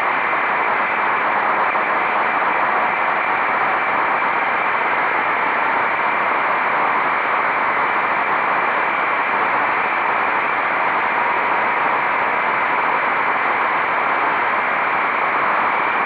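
Motorcycle riding at a steady speed: a constant rush of wind over the microphone with the engine running underneath.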